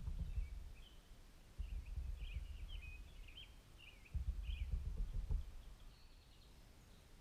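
Small songbirds chirping, a quick run of short high notes that thins out about five seconds in. Three bursts of low rumble come over it, at the start, around two seconds and around four to five seconds in, louder than the birds.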